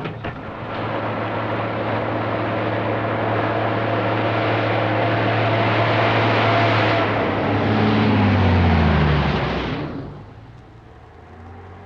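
Motor vehicle engine noise that builds up, holds steady, then drops in pitch as the vehicle goes by and fades sharply about ten seconds in.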